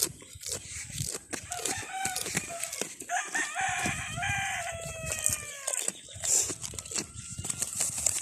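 A rooster crows once, about three seconds in: one long call nearly three seconds long that sags in pitch toward its end. It sounds over the crisp crunching of a goat chewing mango leaves.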